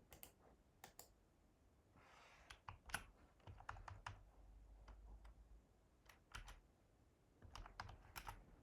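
Computer keyboard typing: scattered key clicks in short irregular runs.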